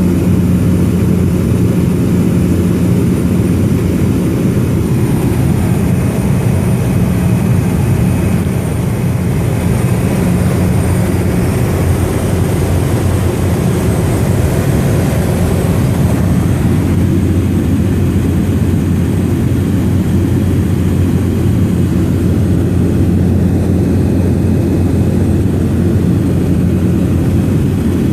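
Propeller aircraft engine running steadily in flight, a constant low hum heard from on board.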